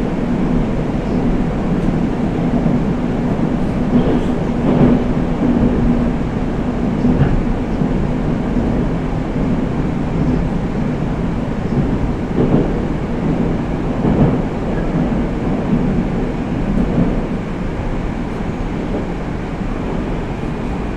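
Interior of a Moscow metro 81-765 «Москва» train running through the tunnel: a steady rumble of wheels on rail with a hum from the drive, and a few knocks from the track. It gets a little quieter near the end.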